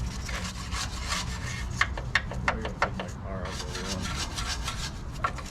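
A stiff brush scrubbing a car's engine-bay sheet metal with rapid back-and-forth strokes, with a few sharper strokes around the middle.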